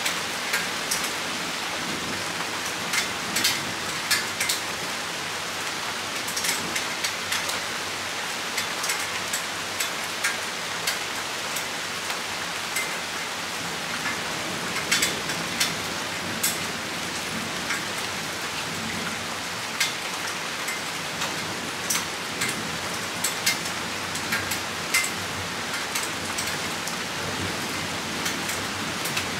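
Rain shower falling steadily, with individual drops striking close by as frequent, irregular sharp ticks.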